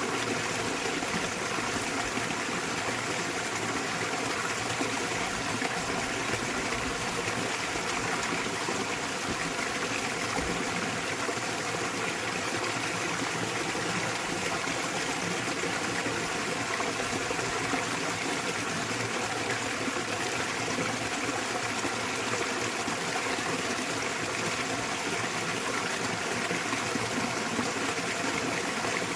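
Small waterfall splashing steadily into a mountain stream, a constant rushing of water that does not change.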